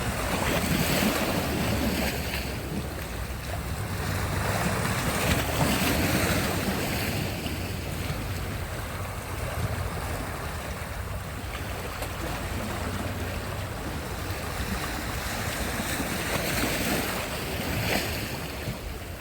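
Sea surf: waves breaking and washing up on the shore in a steady wash that swells louder a few times, most around six seconds in and near the end. Wind on the microphone adds a low rumble.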